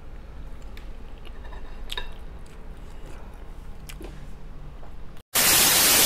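Close-up mouth sounds of someone chewing a mouthful of spicy noodles, with a few small wet clicks. About five seconds in, after a split second of silence, these give way to a sudden loud burst of TV-static hiss, which is the loudest sound.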